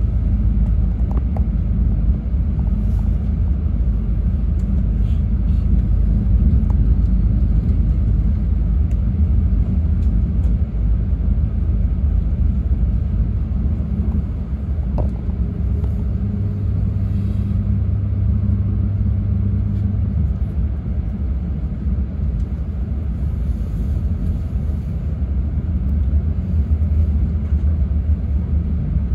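E6 series Komachi Shinkansen train running, heard from inside the passenger car: a steady low rumble from the wheels and running gear on the track.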